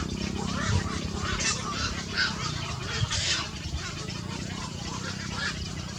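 Small birds chirping in short, high calls that follow one another quickly, thickest in the first half, over a low steady hum.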